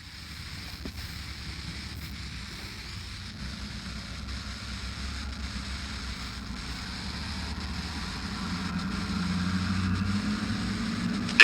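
Steady aircraft engine and cabin noise with a low hum, starting abruptly after silence and growing slightly louder near the end.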